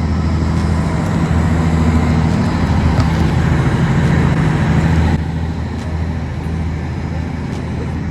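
Jet boat engine running, really loud: a steady low drone under a rushing noise, which drops a little about five seconds in.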